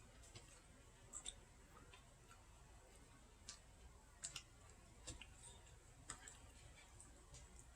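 Near silence with a few faint, sharp clicks scattered through it: small eating sounds while chili is tasted.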